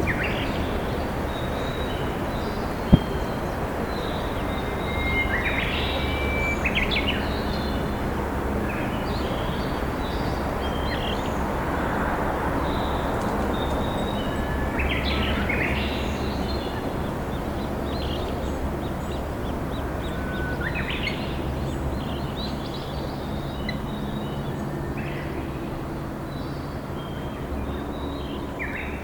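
Steady rushing of a flowing river, with wild birds chirping and whistling at intervals over it. A single sharp click about three seconds in.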